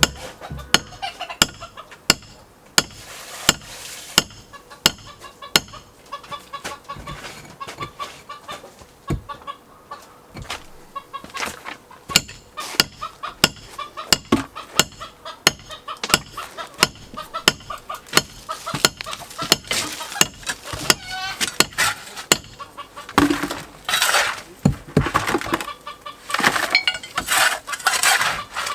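Repeated hammer blows on concrete, about one or two a second, as concrete is broken out of an old boat's hull. Chickens cluck throughout, louder and busier in the last few seconds.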